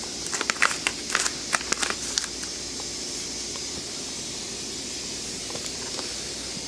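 A quick run of sharp clicks and crackles in the first two seconds or so, then a steady hiss.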